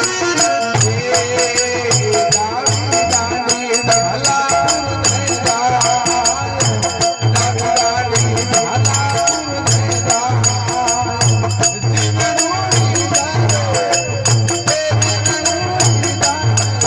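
Rajasthani folk bhajan music without words: a steady drum beat about twice a second under continuous jingling percussion, with a wavering melody line over it.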